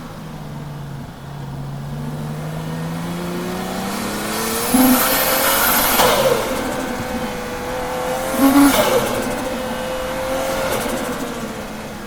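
Toyota JZX-series straight-six drift car under hard throttle, engine note climbing steadily and then holding high, with tyre squeal and two short loud bursts about five and eight and a half seconds in. The engine is misfiring.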